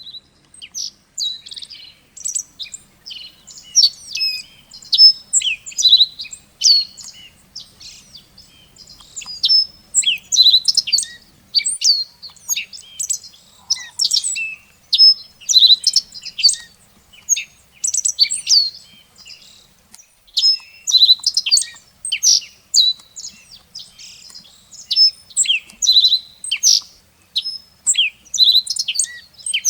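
Small songbirds chirping and twittering, many short high calls overlapping almost without pause, with brief lulls.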